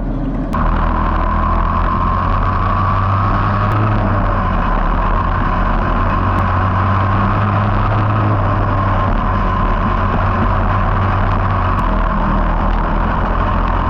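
Small race car engines running on a racetrack in a steady drone that comes in abruptly about half a second in.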